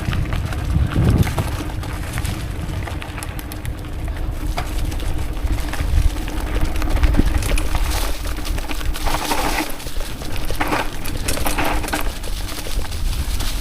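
Mountain bike riding on a forest trail: wind rumbling on the action camera's microphone, with clicking and rattling from the bike over rough ground.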